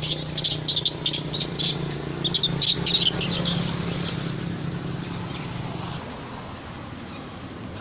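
Monkeys giving a rapid run of short, high-pitched squeaks and squeals, dying away after about three and a half seconds, over a steady low hum.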